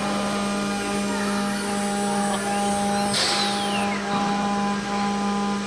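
CNC router running: a steady mechanical hum with higher whining tones, one of them cutting in and out, and faint rising and falling pitch glides. A short burst of hiss comes about three seconds in.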